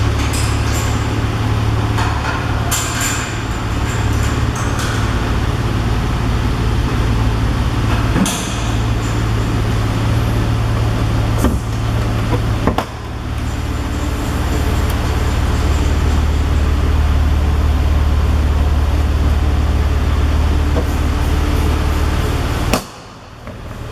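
Porsche 911 Carrera's flat-six running through a Tubi exhaust: a steady, loud, deep drone, with a couple of sharp clicks around the middle. The sound drops away briefly near the end.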